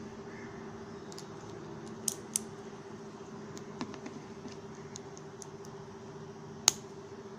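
A few sharp clicks over a steady low hum. Two come close together about two seconds in, and the loudest comes near the end.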